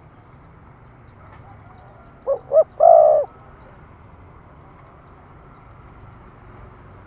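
Spotted dove cooing once: two short notes, then a longer coo, a little over two seconds in, over a steady low hum.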